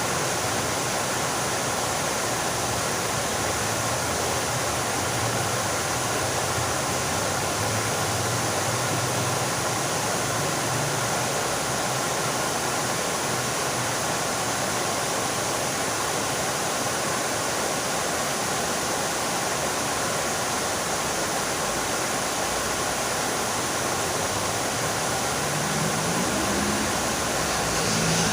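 Fountain water falling and splashing steadily into its basin, a continuous even rush. Near the end a faint low tone rises briefly under it.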